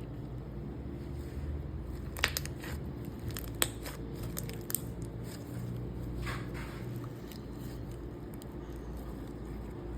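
Stretchy slime being pressed and stretched by hand, with a few sharp pops about two, three and a half, and nearly five seconds in, and softer squishes a little later, over a steady low hum.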